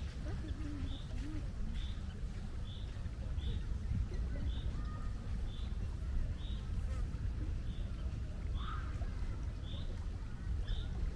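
A bird repeating a short, high call at an even pace, about three calls every two seconds, over a steady low rumble.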